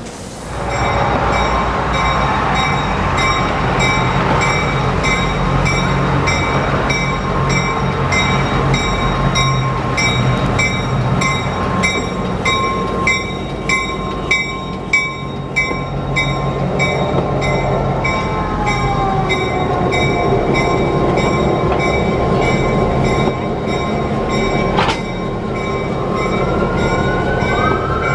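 Diesel train running, its bell ringing about twice a second over a steady low rumble. Wheels squeal in gliding tones in the second half, with a sharp click near the end.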